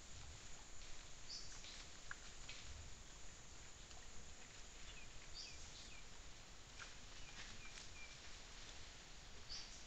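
Faint forest ambience over a steady hiss: a bird gives a short, high call three times, about every four seconds, with fainter chirps in between.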